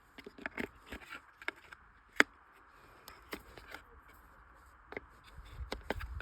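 Small hard plastic and metal clicks and light knocks from handling a Bosch screwdriver bit set's plastic case and bits, irregular, with one sharp click about two seconds in and a low rumble from handling near the end.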